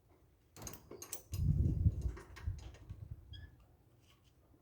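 Hand wrenches clicking and clinking on a nut and metal parts, a few sharp clicks in the first second or so, then a louder low rumble of handling and shifting about a second and a half in, followed by faint ticks.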